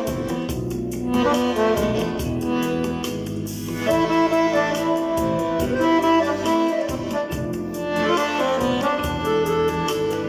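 Accordion with a MIDI system playing a tune: a saxophone-like lead voice carries the melody over a backing with a steady beat.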